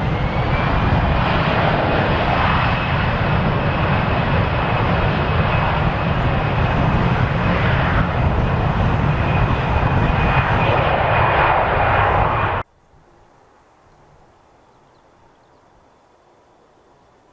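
Jet airliner's engines: a loud, steady rush of noise with a high whine held at one pitch, cutting off suddenly about twelve seconds in.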